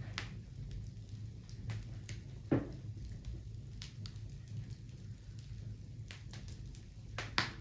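Wood bonfire crackling, with scattered sharp pops and snaps over a steady low rumble; two louder pops come about two and a half seconds in and near the end.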